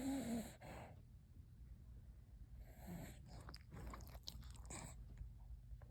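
Sleeping dog gives a short low moan at the start, then a run of mouth clicks and smacks from about three seconds in, as if chewing or licking its lips in its sleep.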